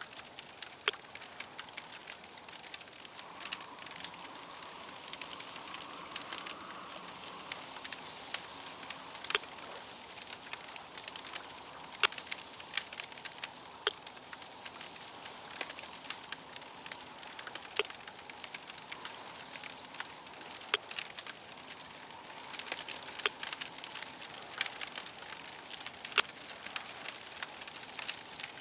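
Fire crackling steadily, a soft hiss broken by many irregular sharp pops and snaps.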